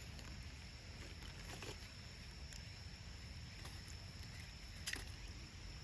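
Lump charcoal being handled and set in a small titanium box stove: a few faint, sparse clicks and light knocks, one sharper click near the end, over a steady high insect drone and a low outdoor rumble.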